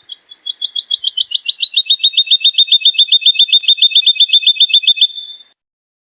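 Woodlark singing one long trill of evenly repeated notes, about nine a second, that starts a little higher, slides slightly down and levels off, stopping shortly before the end.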